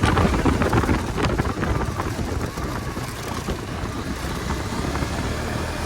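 Motor vehicle fitted with an aftermarket exhaust running while on the move, with wind buffeting the microphone.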